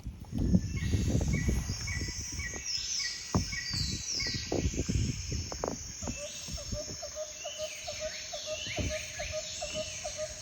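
Birds calling outdoors: many short down-slurred calls and a run of evenly spaced chirps, then a lower call repeated about three times a second in the second half, over uneven low rumbling.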